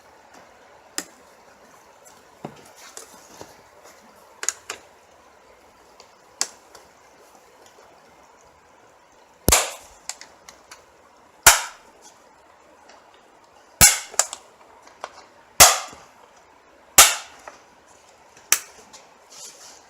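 A series of sharp knocks and clicks from tools and parts being handled while the engine's air intake is put back together. A few light ones come in the first half; six loud ones follow in the second half, each about one and a half to two seconds apart.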